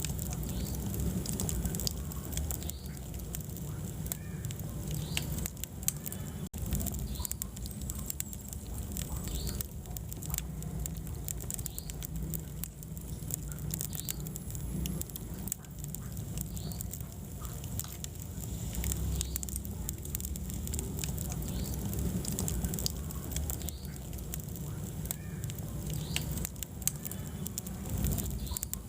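Wood fire burning in a fireplace: a low rumble of flames with frequent irregular crackles and small pops from the burning logs.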